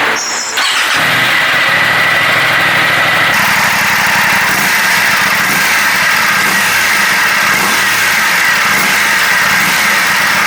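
Aprilia RS660's 659 cc parallel-twin engine starting about a second in, then idling steadily.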